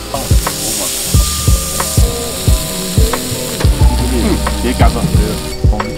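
Food sizzling as it fries in a pan, under background music with a steady beat of about two thumps a second.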